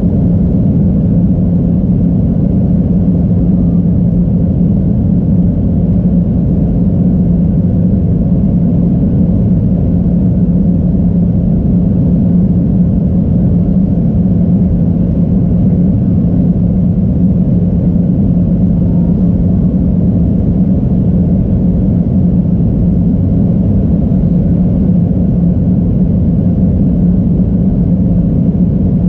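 Steady low drone of an airliner heard from inside the passenger cabin: engine and airflow noise with a constant deep hum, unchanging throughout.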